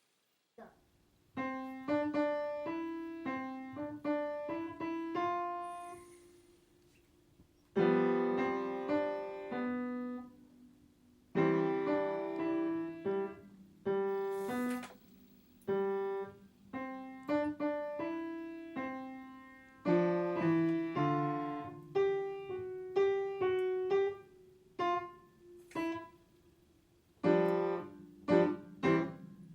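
Solo piano playing slowly: single notes and chords that strike and ring out, stopping briefly a couple of times between phrases.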